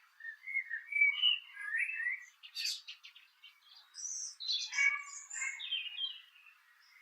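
A small songbird singing two warbling phrases. The first fills the opening two seconds or so, and a second, busier phrase starts about four seconds in.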